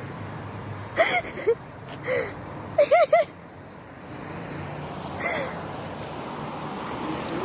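A small animal's short, high-pitched squeaky calls, each rising and falling in pitch, with three in quick succession about three seconds in, over a steady low hum.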